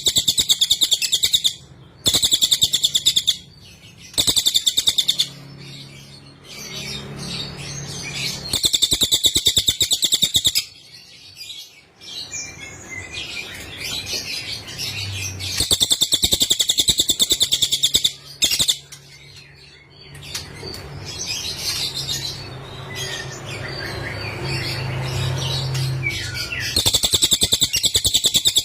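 Cililin bird singing: loud, rapid high trills, each about one and a half to two seconds long, repeated every few seconds with softer scattered chirps in between.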